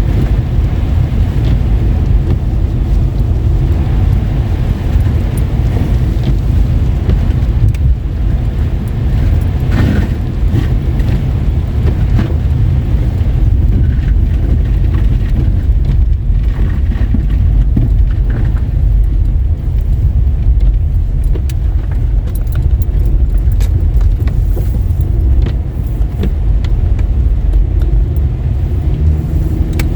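A car driving, heard from inside: a loud, steady low rumble of tyre and engine noise on roads wet with rain and snow.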